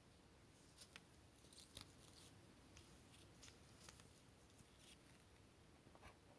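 Near silence with faint, scattered light clicks and rustles of objects being handled.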